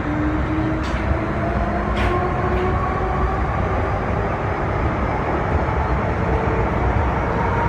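MTR M-Train running, heard from inside the car: a steady rumble of wheels on the track with a traction-motor whine rising slowly in pitch as the train picks up speed. There are a couple of faint clicks in the first two seconds.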